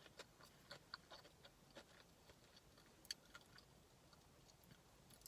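Near silence, broken by faint scattered mouth clicks of someone chewing food.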